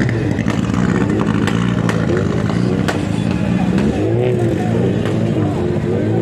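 Rally car engine running near idle, its pitch rising and falling in short revs, with a few sharp ticks over it.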